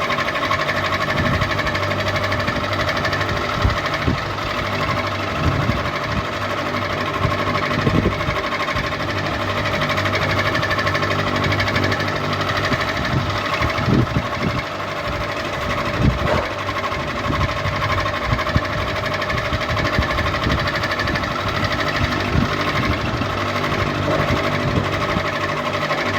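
Ceiling fan running steadily: a constant motor hum with a few steady whining tones, and irregular low knocks now and then.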